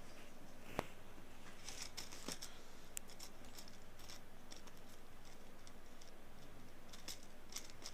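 Ear-cleaning tool scraping inside an ear canal, heard up close as scattered short scratchy crackles, with one sharp click about a second in.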